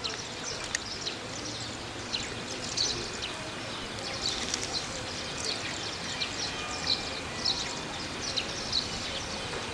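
Small birds chirping repeatedly in short high calls over steady outdoor background noise.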